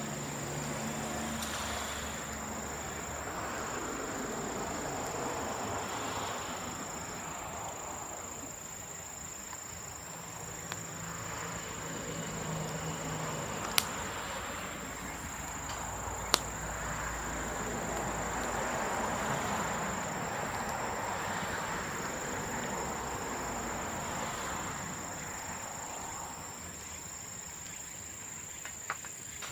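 Bamboo bonfire burning with a rushing sound that swells and fades, and two sharp pops near the middle. A steady high insect trill sounds alongside.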